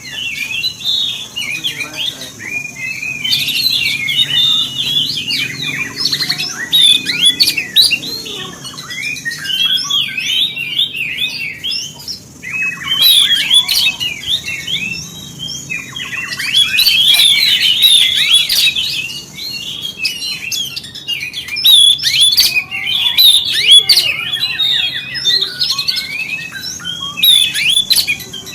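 Oriental magpie-robin (kacer) singing a fast, varied, chattering song in bursts of a few seconds with short breaks between. It is a lure song of the kind played to provoke other kacer into singing.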